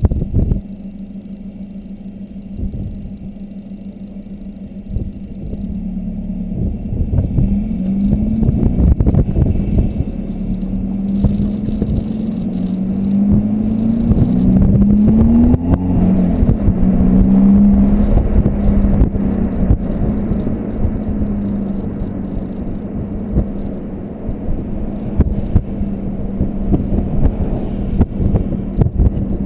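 Volkswagen Golf 2.0 TDI four-cylinder turbodiesel running through a 3-inch high-flow cat exhaust with the stock muffler: a deep exhaust rumble that gets louder about six seconds in, its pitch rising and falling as engine speed changes.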